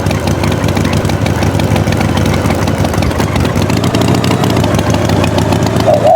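Tractor engine running steadily at a constant speed, a dense, even rumble.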